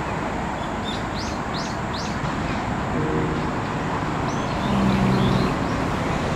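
Birds chirping in short high calls, three or four about a second in and a couple more after four seconds, over a loud steady rushing outdoor noise.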